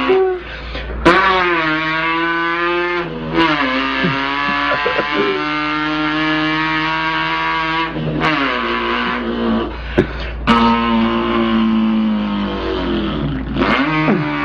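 A man's voice imitating an import car's engine, revving up through the gears: a buzzing engine note that climbs in pitch, drops sharply, and climbs again several times, like gear changes, with a few sharp clicks.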